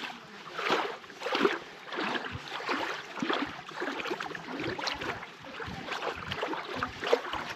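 Stream water sloshing and splashing around legs in waders as someone wades through it, in irregular surges with each stride.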